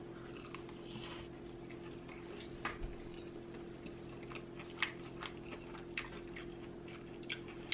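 A person chewing a bite of sauce-dipped fried chicken tender, heard as a handful of short, scattered mouth clicks and smacks over a steady low hum.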